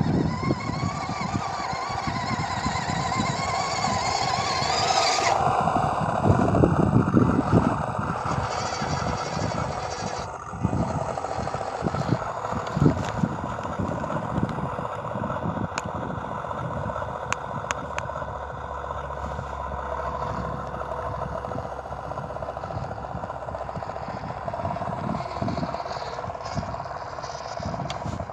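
RC model Ural 4320 truck driving over loose soil: its drivetrain whines, rising in pitch for the first five seconds and then cutting off sharply, before running on at a lower steady pitch. Scattered thumps and crunches from the wheels on the soil, with a few sharp clicks.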